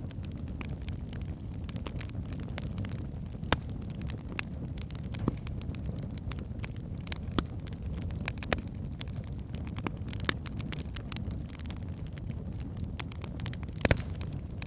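Wood fire burning in a fireplace: a steady low rumble of flames with frequent sharp crackles and pops from the logs, a louder pop about three seconds in and a double pop near the end.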